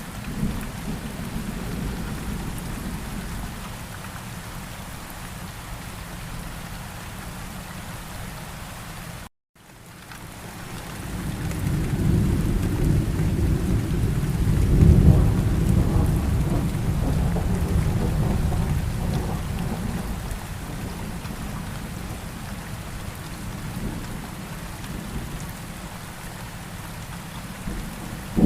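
Steady rain with rolling thunder: a long low rumble builds from about ten seconds in, peaks a few seconds later and slowly fades away. The sound drops out completely for an instant about nine seconds in.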